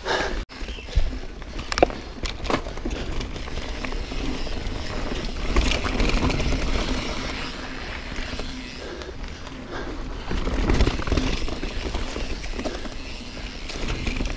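Yeti SB4.5c full-suspension mountain bike descending a dirt singletrack: tyres rolling over dirt, rocks and roots with rattling from the bike. There is a continuous rough rumble, with a few sharp knocks in the first couple of seconds.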